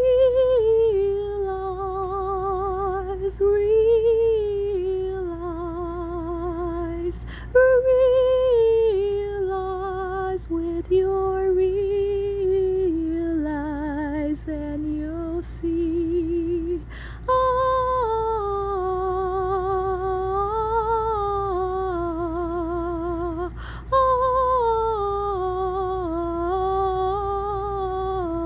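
A woman's solo unaccompanied voice singing a slow melody with vibrato, in long held phrases with short breaks between them, over a faint steady low hum.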